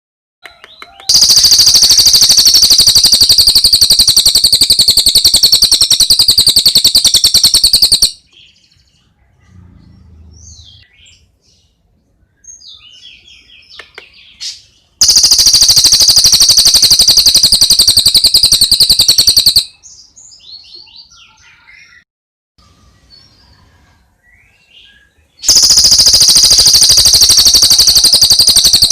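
Birdsong: a loud, fast high-pitched trill comes three times, each lasting several seconds. Softer scattered chirps fill the gaps between trills.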